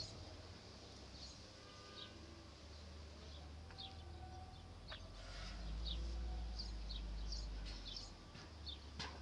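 Small birds chirping, many short high chirps scattered throughout, over a low rumble that swells for a couple of seconds past the middle.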